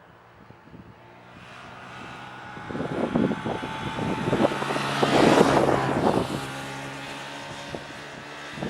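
ATR 72-600 twin turboprop engines and propellers droning past, growing louder to a peak about five seconds in and then easing off. Gusts of wind buffet the microphone.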